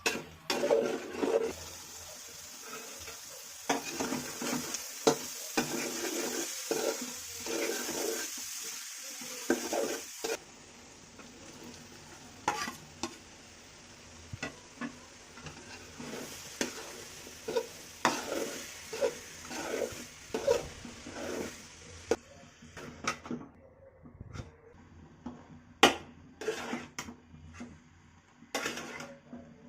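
Food sizzling in hot oil in a pan while a utensil stirs it, with frequent clicks and knocks of the utensil against the pan. The sizzle drops sharply about ten seconds in and softens further later on, leaving mostly scattered clinks near the end.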